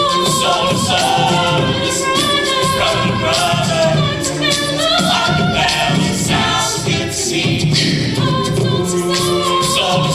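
A choir singing a cappella in several voice parts, with vocal percussion keeping the beat.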